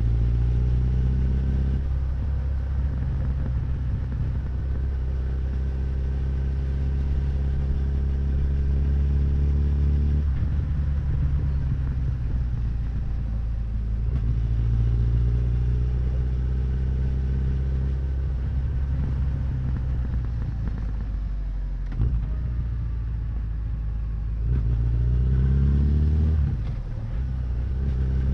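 Honda CB1100's air-cooled inline-four engine and exhaust under way, its note rising under throttle several times and dropping back off the throttle between runs, with a sharp drop about 26 seconds in. A short knock sounds about 22 seconds in.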